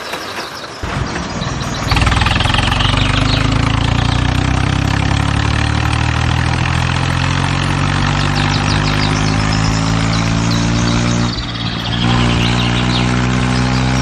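Tractor engine running steadily, its pitch rising slowly as it gains revs. It dips briefly about eleven seconds in, then picks up again.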